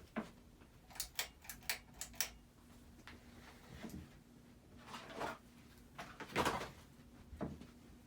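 Hampton Bay Cameron II ceiling fan running on medium speed with a faint steady motor hum. About a second in there is a quick run of light clicks, followed later by a few louder knocks and rustles.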